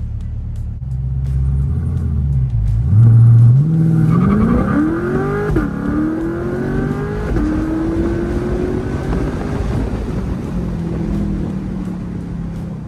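C8 Corvette's V8 engine rumbling low, then launching hard about three seconds in: its note climbs fast, drops twice in quick upshifts, then keeps climbing more slowly in a higher gear, heard from inside the cabin during a full-throttle 0-60 mph run.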